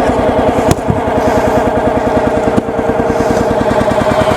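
Log splitter's small gasoline engine running steadily after a cold start in 10-degree weather, with a steady high tone over its even firing. A sharp click comes under a second in and another at about two and a half seconds.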